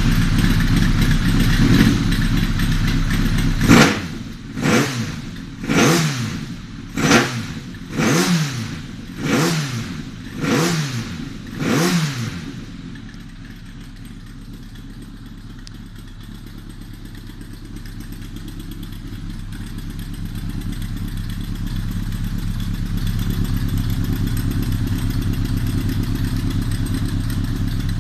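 Kawasaki ZRX1100 inline-four engine exhausting through a one-off centre-up muffler: it idles, then is blipped about eight times, roughly a second apart, each rev falling straight back. From about twelve seconds in it settles to a quieter steady idle that slowly grows louder.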